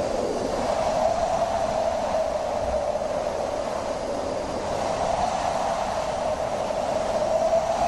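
Wind howling: a steady breathy rush with a hollow, whistling tone that slowly rises and falls in pitch.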